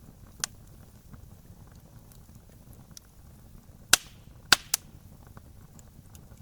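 Wood fire crackling, with a few loud sharp pops: one about half a second in, then three close together about four seconds in, over a low steady rumble.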